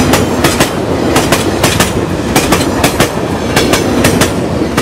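Rajdhani Express passenger coaches rolling past at speed, their wheels clattering over rail joints in quick pairs of clicks, about two pairs a second, over a steady rumble.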